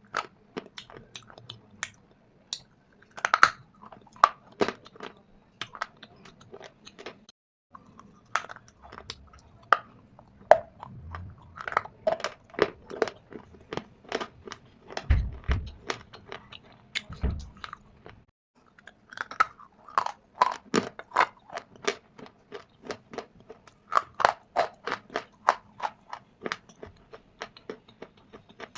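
Dry shale stone and clay being bitten and chewed: a dense run of sharp crackles and snaps, broken by two short silences, with a few deeper thuds midway.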